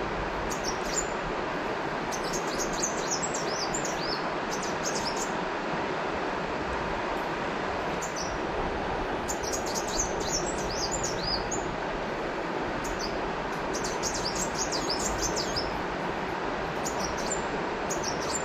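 River water flowing steadily, with small birds chirping in short high-pitched bursts that come and go in several clusters.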